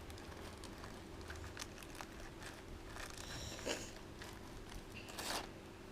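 Faint crinkling and rustling of snack packaging being handled, with scattered light clicks and a couple of short louder rustles near the end.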